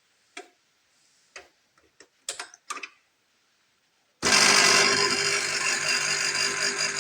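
A few light clicks and knocks, then about four seconds in the De'Longhi Vintage Icona espresso machine's vibratory pump starts and buzzes loudly and steadily.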